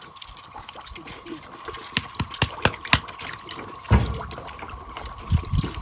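Feeder pigs eating wet feed: irregular wet chomping, smacking and slurping clicks, with a couple of louder low thuds about four and five and a half seconds in.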